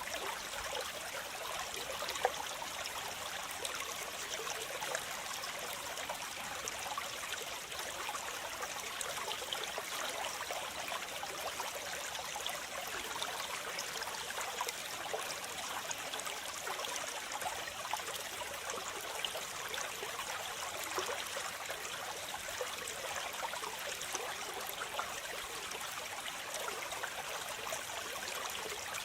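Waterfall: water splashing and running steadily, a light rushing sound with little deep rumble.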